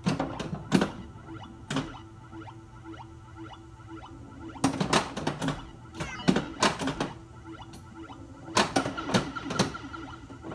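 Pinball machine in play. A pulsing electronic background tone from its Squawk & Talk sound board runs throughout, with overlapping synthesized game sound effects layered over it. Sharp mechanical knocks come from the playfield, loudest around five seconds in and again near the end.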